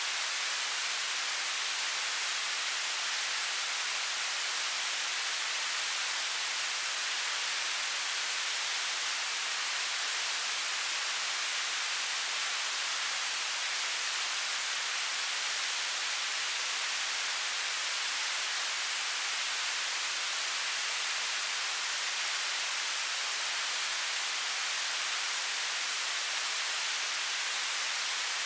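Television static: a steady, even hiss of white noise, weighted to the high end, with no change in level.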